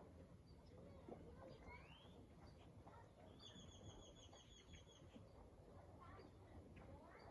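Faint birdsong: scattered short rising chirps, and a rapid trill of about a dozen high notes a little past the middle, over a low background rumble.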